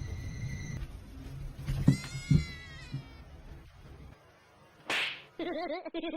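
A cat meowing once, a drawn-out call rising and then falling in pitch, about two seconds in. A short sharp noise follows about five seconds in.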